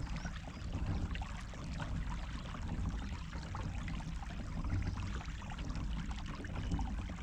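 Water splashing and trickling along a kayak's hull as it moves through the water, with many small irregular splashes over a low steady rumble.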